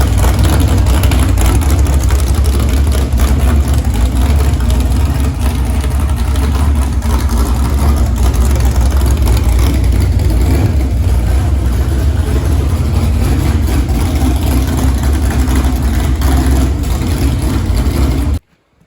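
Car engine with aluminum heads running loud with a heavy low rumble, being revved. The engine is braced by a bolt run from the cylinder head down to the frame, which keeps it from rocking under the revs. The sound cuts off suddenly near the end.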